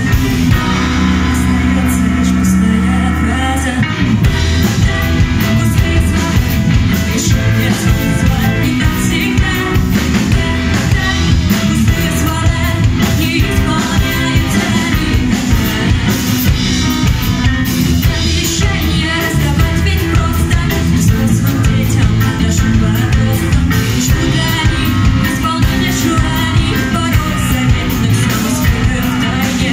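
A live rock band playing, with electric guitar, bass guitar and drum kit, and a woman singing. A low chord is held for the first few seconds, then the drums and full band come in with a steady beat.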